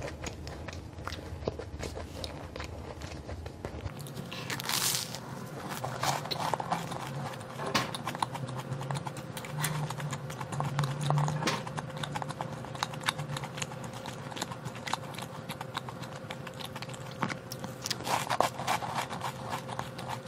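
Close-up chewing and crunching of a flaky olive-and-cheese pastry: a dense run of small crisp crackles and wet mouth clicks, with a louder crunch about five seconds in. A faint steady hum runs underneath.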